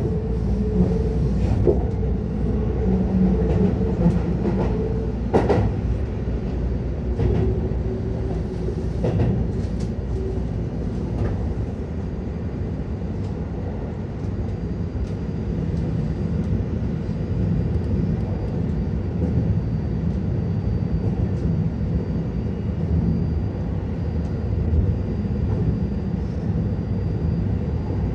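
Keihan 10000 series commuter train running between stations, heard from inside the car: a steady low rumble of wheels on rail. In the first part a few sharp rail-joint knocks sound.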